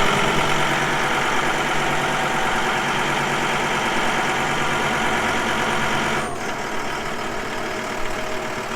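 John Deere farm tractor engine running steadily. About six seconds in, its higher sounds drop away and it runs on lower.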